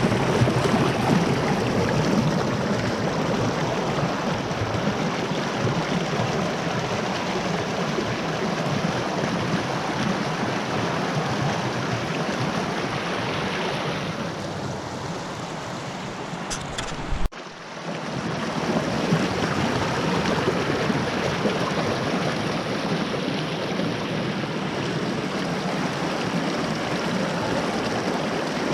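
Fast-flowing creek water rushing steadily over rock. About two-thirds of the way through the rush turns softer and duller for a few seconds, then a single sharp click comes and the full rush resumes.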